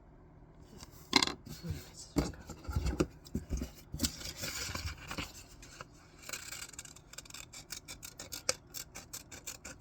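Scissors cutting paper in a run of snips, with paper rustling and rubbing as the sheet is handled. The loudest snip comes about a second in, and quicker, closely spaced snips come near the end.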